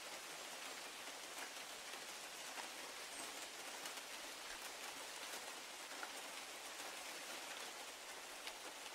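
Steady rain falling on a large cedar tree and grass: an even hiss with scattered sharp drip ticks.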